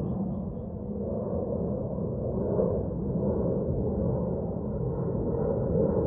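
Steady outdoor ambient rumble with a low hiss, rising and falling gently in level.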